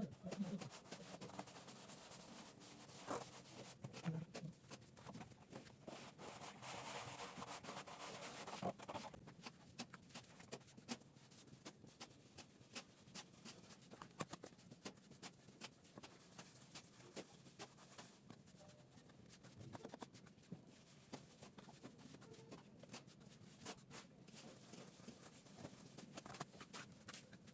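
Faint scraping with scattered small taps and clicks, the sound of a trowel working cement plaster on a wall. The scraping is densest for the first several seconds.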